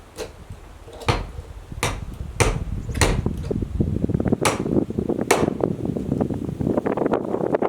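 A series of seven sharp knocks at uneven intervals, over a rustling, crackling noise that grows louder through the second half.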